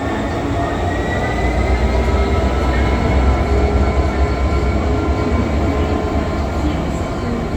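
GBRF Class 66 diesel-electric locomotive 66786 passing, its two-stroke V12 diesel engine giving a loud low drone that builds to a peak about three seconds in and then eases off, with thin steady high tones over it.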